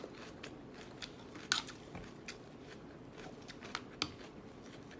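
Close-up chewing of a mouthful of crisp lettuce salad: scattered short crunches, the loudest about one and a half seconds in.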